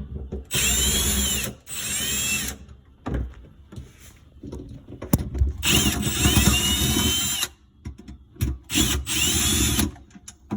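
Power drill/driver running in four short trigger pulls, its motor whine rising and falling in pitch, backing out the screws of a garbage disposal's mounting bracket, with small clicks of handling between the runs.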